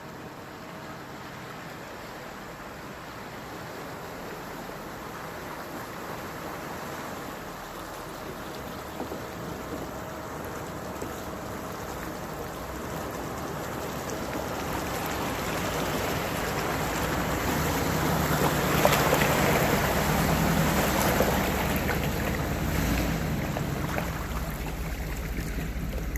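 A vehicle fording a creek. Rushing water grows steadily louder as an engine hum comes in during the last third, and the loudest rush of splashing water comes about three-quarters of the way through.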